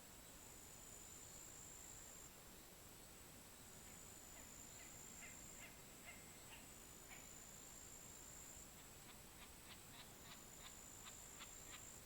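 Faint pond-side night chorus: a steady high insect trill, with an animal calling in short notes that come in a quick series of about five a second in the second half.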